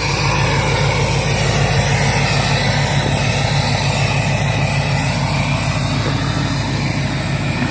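2008 Duramax LMM 6.6-litre V8 turbodiesel idling steadily through a 5-inch aftermarket exhaust.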